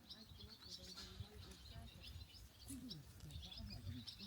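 Small birds chirping faintly, with many short, high chirps in quick succession.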